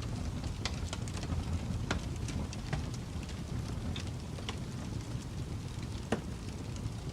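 Wood fire burning in a fireplace: a steady low rumble with scattered crackles and pops, the sharpest pop about six seconds in.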